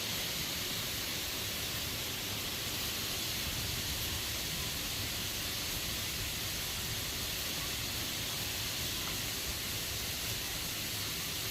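Steady rushing of a waterfall, an even hiss with no change through the whole stretch.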